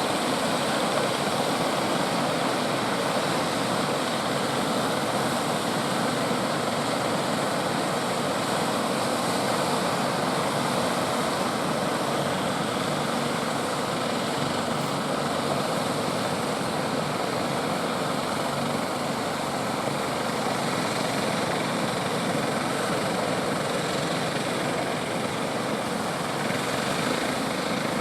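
Heavy ocean surf, a steady, even roar of breaking waves.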